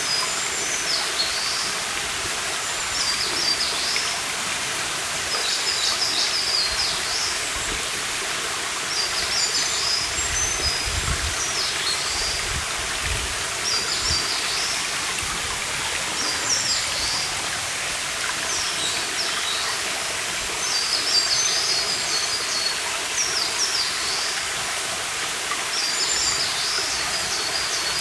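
A stream running steadily, with a songbird singing short, high phrases every two to three seconds over it.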